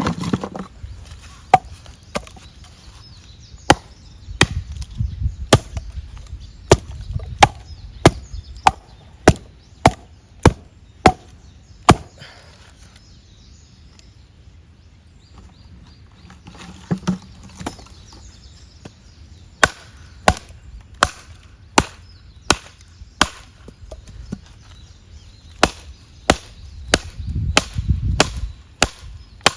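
Firewood being chopped: a long run of sharp wooden strikes about every half-second to second, stopping for a few seconds in the middle and then starting again.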